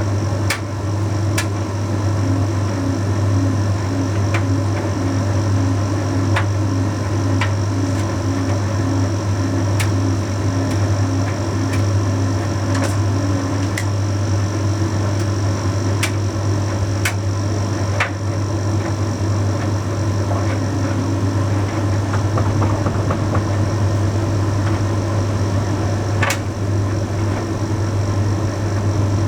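Bosch Series 6 heat pump tumble dryer running a Shirts cycle. It gives a steady low hum, with occasional sharp clicks as the load tumbles in the drum.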